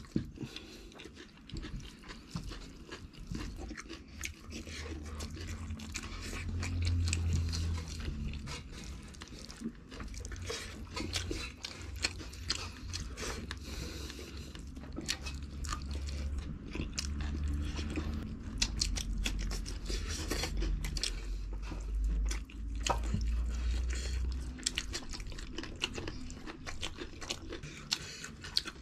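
Close-miked chewing of rice and curry eaten by hand: wet mouth clicks and smacks with occasional crunching, and a low rumble through much of it.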